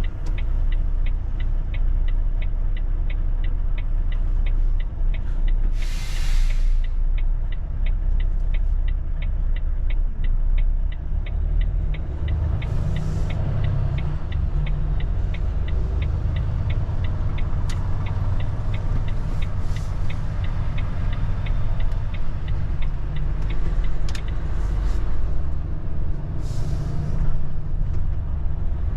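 Volvo truck's diesel engine running with a steady low rumble, with fast regular ticking through the first half and several short hisses of air.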